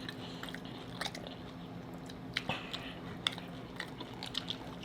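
Close-up chewing of crunchy hard-shell tacos: irregular crunches and wet clicks, with a couple of sharper crunches in the middle. A faint steady low hum runs underneath.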